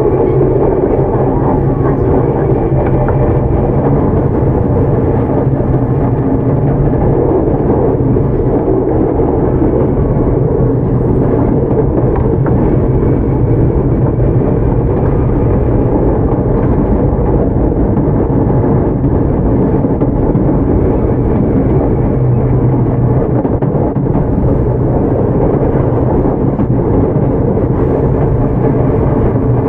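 Tokyu 9000 series electric commuter train running at a steady pace, heard from on board: a constant rumble of wheels on rail and car noise.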